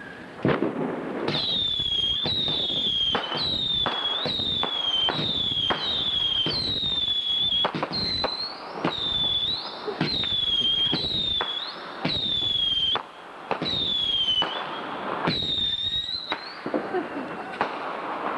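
Whistling fireworks firing in a quick series: about fifteen shrill whistles, roughly one a second, each starting with a sharp crack and dipping slightly in pitch. The series stops about two seconds before the end.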